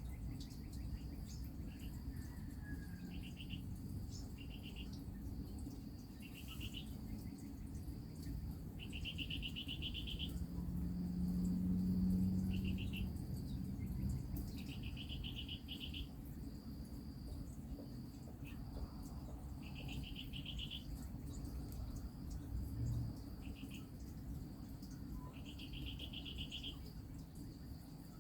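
Insects trilling outdoors: short, rapidly pulsed trills repeating every second or two over a steady high-pitched buzz. A low drone underneath swells briefly about halfway through.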